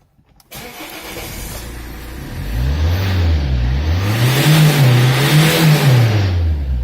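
Suzuki SX4 1.9-litre D19AA turbodiesel engine catching about half a second in and running, then revved up twice and falling back to idle near the end.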